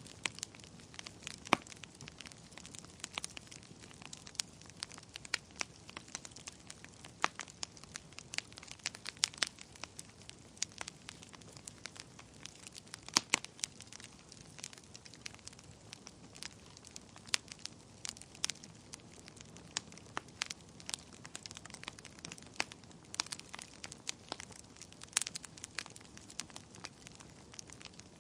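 Wood fire burning in a fireplace, crackling with irregular sharp pops and snaps over a faint hiss.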